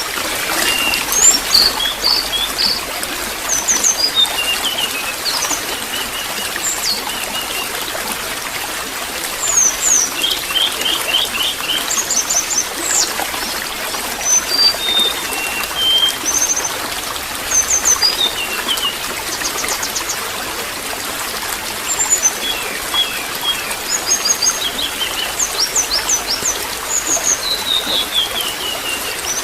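Steady trickling water, with small birds chirping and twittering in quick short runs of notes on and off over it.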